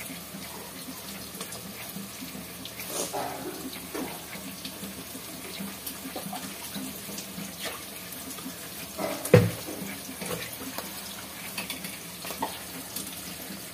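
Chopped onion, ginger, garlic and green chillies frying in mustard oil in a large pot, a steady sizzle. A sharp knock about nine seconds in.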